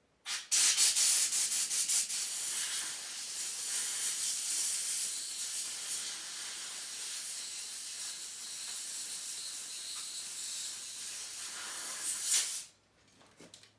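Compressed-air blow gun hissing as it blows dirt off a dirt bike: a few short blasts at first, then a long, fairly steady blast that cuts off suddenly about a second before the end.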